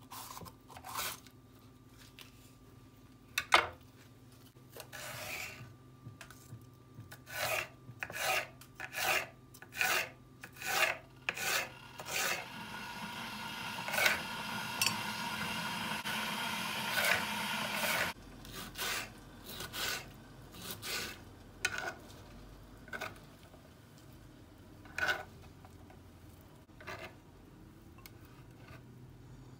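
Rasping, rubbing strokes on a surface, short ones one after another, with a stretch of continuous rubbing from about twelve to eighteen seconds in.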